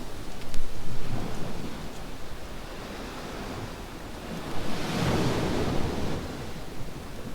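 Surf on a beach, with one wave swelling and washing in about five seconds in, over a low steady rumble, and a faint sharp crackle from a campfire near the start.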